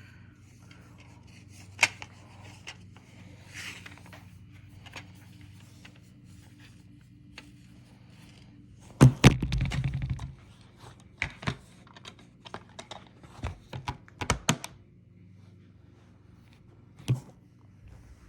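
Scattered clicks and knocks of small objects being handled, with a louder bump and rustle about nine seconds in and a quick run of knocks around fourteen seconds, over a faint steady hum.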